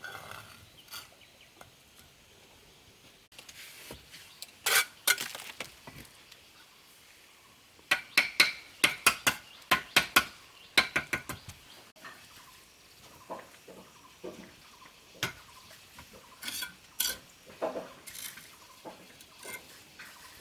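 Irregular sharp clinks and taps of hard objects striking one another, with a quick run of them about eight to eleven seconds in.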